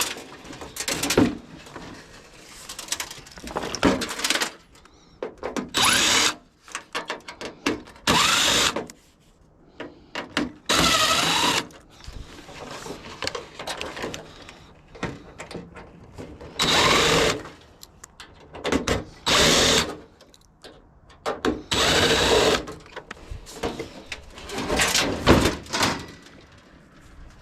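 Power drill/driver running in short bursts, revving up and down as it backs screws out of a water heater's sheet-metal shell. Between bursts there is light clatter from handling metal.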